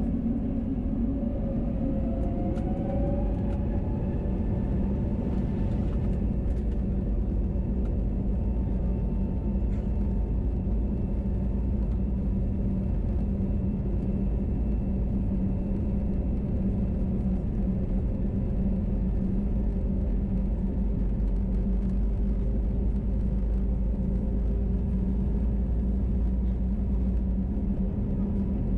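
Airbus A321neo cabin noise from a window seat: a steady engine and airflow rumble. About two seconds in, an engine tone rises in pitch for a couple of seconds, then holds steady.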